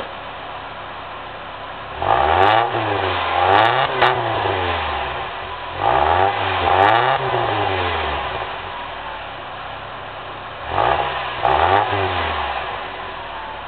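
1996 Pontiac Grand Am GT's engine through an aftermarket Dynomax dual-muffler exhaust, idling and then revved in three pairs of quick throttle blips, each rising and falling back to idle. The exhaust has a bit of a growl.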